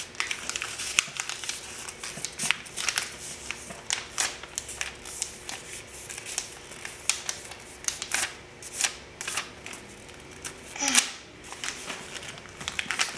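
A sheet of paper being folded and creased by hand: steady rustling with many short, crisp crackles as the folds are pressed down.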